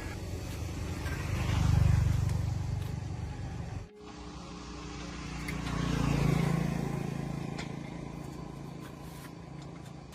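Road vehicles passing by: an engine sound swells and fades twice, once about two seconds in and again around six seconds, with a sudden break between them.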